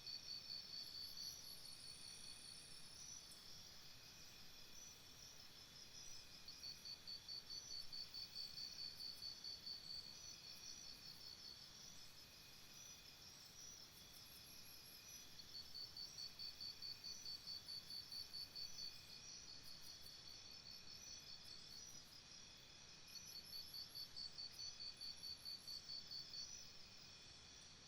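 Jungle ambience of insects trilling in chorus. A loud, high pulsing trill comes in four bouts of a few seconds each, over steadier high buzzing and chirping from other insects.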